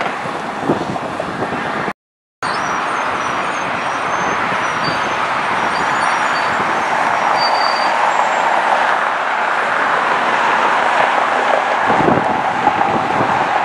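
Jet airliner engine noise, a steady broad rush that builds slightly toward the end, broken by a short silent gap about two seconds in.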